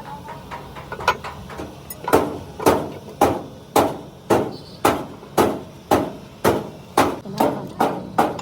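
A hammer striking repeatedly: light, uneven taps for the first couple of seconds, then a steady run of heavier blows about two a second.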